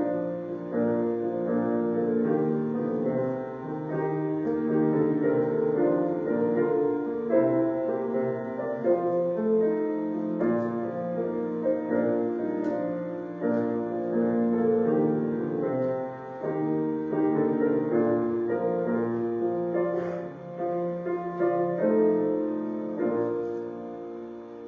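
Solo piano playing offertory music, slow chords that soften near the end.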